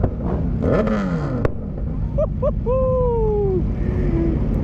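Motorcycle engine revving up and back down under heavy wind noise, with a sharp pop from the exhaust about a second and a half in. A drawn-out, falling vocal exclamation follows.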